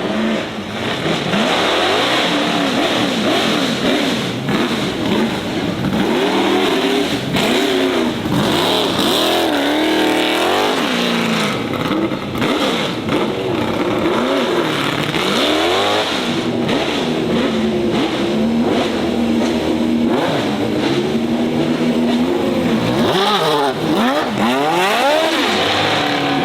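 Performance car engine revving hard, its pitch sweeping up and down over and over, with short rapid rises and falls.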